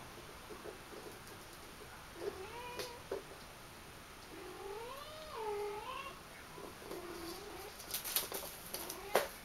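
Five-week-old Persian kitten meowing three times, the middle call long and wavering in pitch. A few sharp clicks and rustles follow near the end.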